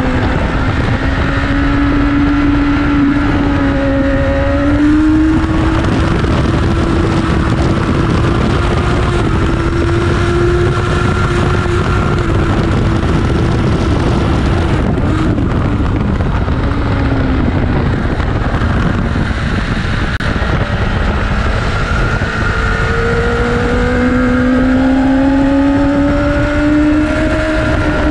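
Inline-four superbike engine heard on board at track speed, its pitch rising and falling through the corners under heavy wind rush over the microphone. The pitch drops around the middle, then the revs climb steadily near the end under hard acceleration.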